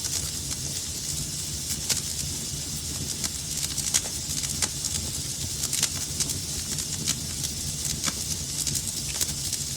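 Wood fire burning in a fireplace, crackling with frequent sharp, irregular pops over a steady low rumble and hiss. A few louder pops stand out, about two, four and six seconds in.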